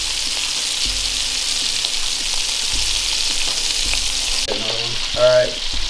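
Strips of snow goose meat sizzling on a hot grill, a steady frying hiss, with a short squeak about five seconds in.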